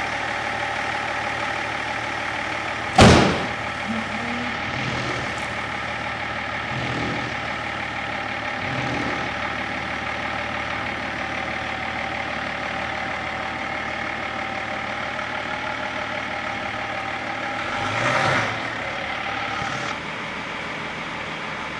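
Diesel engine idling steadily, with one sharp, loud bang about three seconds in and a brief swell near the end.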